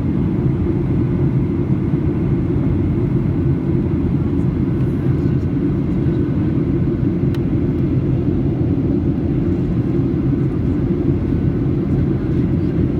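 Steady cabin noise inside a Boeing 737-800 on descent: the even, deep rumble of its CFM56 turbofans and the airflow over the fuselage.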